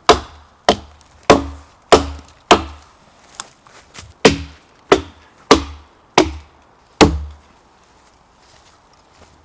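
Repeated hard blows of a tool striking wood: about ten strokes roughly two-thirds of a second apart, with a brief falter in the middle, stopping about seven seconds in.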